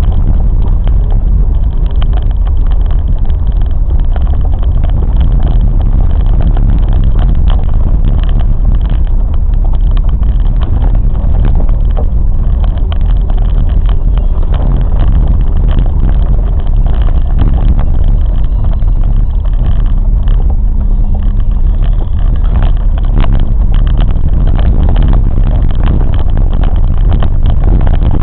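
Train running along the track: a loud, steady low rumble of wheels on rails with faint clicks scattered through it.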